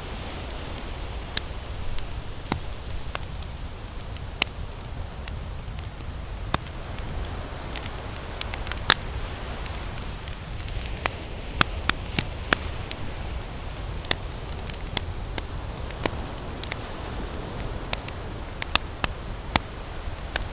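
Campfire crackling and popping with irregular sharp snaps, over a steady low rumble.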